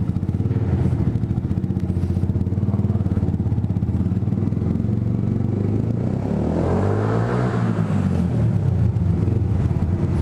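Yamaha YZF R125's single-cylinder four-stroke engine, breathing through an aftermarket Scorpion exhaust, running loud at low revs inside a multi-storey car park. About six seconds in, the engine note sags and then picks up again.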